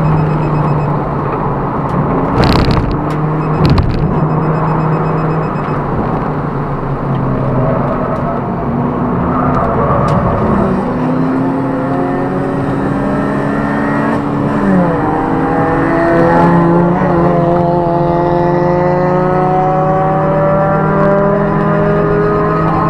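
Inside a Toyota Prius (ZVW30) race car: the 1.8-litre 2ZR-FXE engine and hybrid drivetrain running hard under load, pitch climbing steadily through the second half as the car gathers speed. Two sharp knocks a couple of seconds in.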